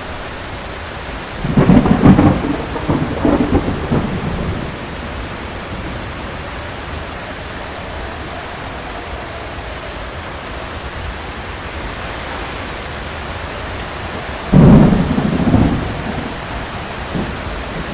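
Heavy rain falling steadily, with two loud rolls of thunder: one about a second and a half in that rumbles on for about three seconds, and a shorter one near the end.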